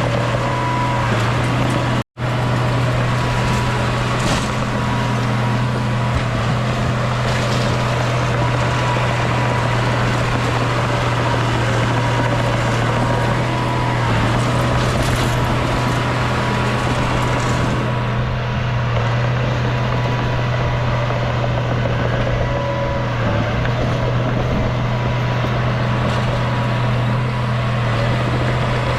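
Heavy diesel engine of a bulldozer running steadily under work, a constant low drone, with a momentary total dropout about two seconds in.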